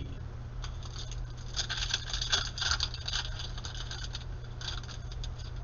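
Panini Prizm basketball cards rustling and clicking as they are slid and flipped one over another in quick succession, over a steady low hum.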